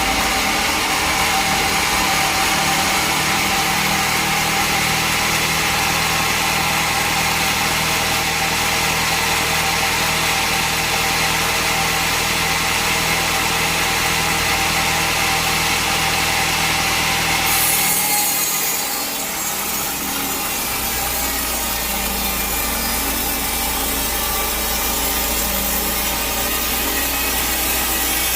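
Bandsaw sawmill running steadily, its blade cutting through a teak log. About two-thirds of the way through the sound changes abruptly to a brighter hiss over a different low hum.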